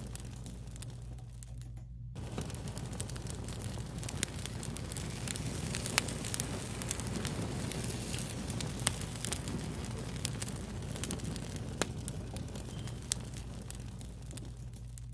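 Wood fire crackling: scattered sharp pops and snaps over a soft steady rush, with brief lulls in the crackle near the start and near the end.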